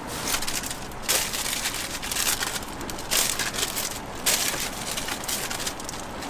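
Street-stall toast preparation: repeated rough, noisy scraping bursts about a second long with short gaps between them.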